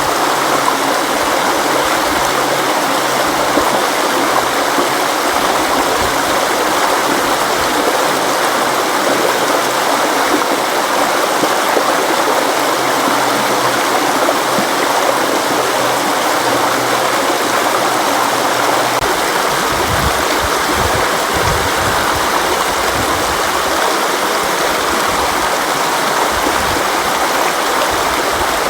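River water flowing, a steady rushing noise without a break, with low rumbles coming and going in the last third.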